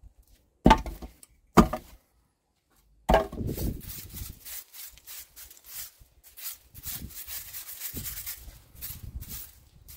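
Dry twigs and firewood knocking and scraping as they are loaded into a wood-fired pizza oven. There are two sharp knocks in the first two seconds and a heavier clunk about three seconds in, then a long run of crackling and scraping from the dry branches.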